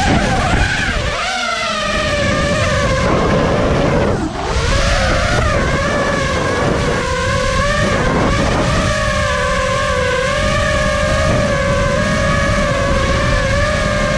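FPV racing quadcopter's motors and propellers whining, the pitch bending up and down with the throttle and briefly dropping about four seconds in, over a steady rush of wind.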